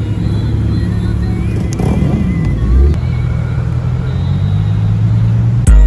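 Car engine running steadily, with a brief rise and fall in engine note about two seconds in. Loud music with heavy bass and drum hits starts just before the end.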